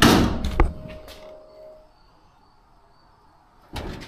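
The steel hood of a 1962 Chevrolet Impala being opened: a loud scraping rush of metal with a sharp click, then a metallic ringing that fades over about two seconds. A short rustle or scrape comes near the end.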